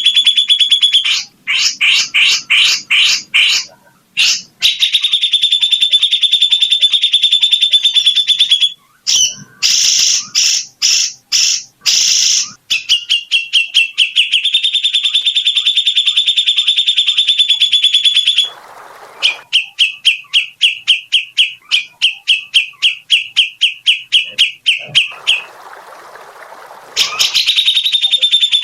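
Songbird singing loud, fast rolling trills, broken up by rapid series of separate high notes and a few short pauses.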